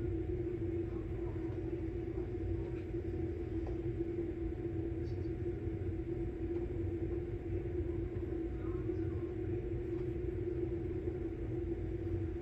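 Samsung Bespoke Grande washing machine running its quick-wash cycle: a steady hum holding one pitch over a low rumble.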